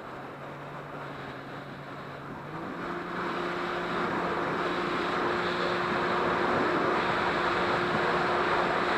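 Jet ski engine running at a steady pitch, then stepping up in pitch about two and a half seconds in as it speeds up, with a rushing noise that grows louder with the speed.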